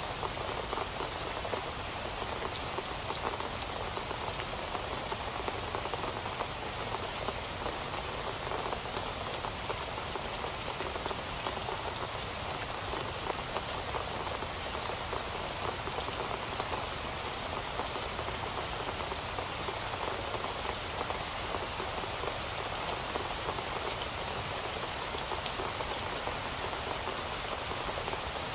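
Steady rain falling on a surface, a dense even hiss of many drops with no thunder.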